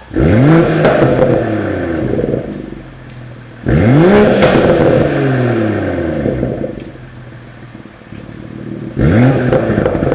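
BMW Z4 M40i's turbocharged straight-six revved three times through an ARP valved end exhaust. Each blip rises fast and falls back to idle over about two seconds. Pops and crackles sound on the overrun from the popcorn exhaust tune.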